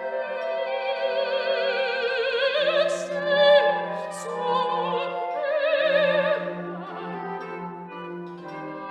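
Classical music: an operatic voice sings long held notes with wide vibrato over orchestral accompaniment.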